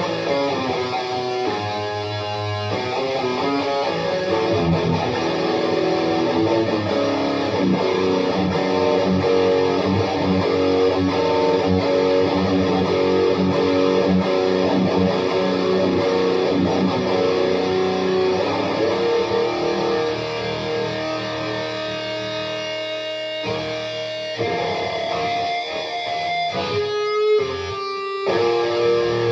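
Electric guitar riffing with a dense, driven tone, played through a Boss OD-2 Turbo Overdrive blended into a Boss Metal Zone and a Fender Deluxe Reverb amp. The playing breaks off briefly a few times near the end.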